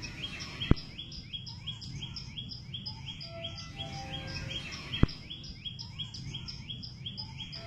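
A bird calling over and over, about three short falling chirps a second, over a low outdoor hum. Two sharp clicks cut in, one under a second in and one about five seconds in.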